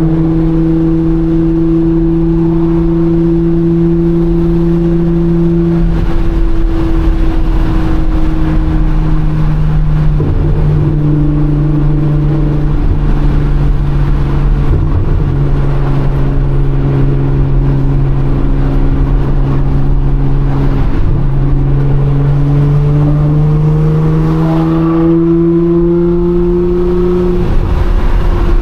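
Nissan R35 GT-R's twin-turbo V6 with full bolt-on modifications, heard from inside the cabin, droning steadily at highway cruise. Its pitch holds level for long stretches, drops a few times and climbs gently near the end before dropping again.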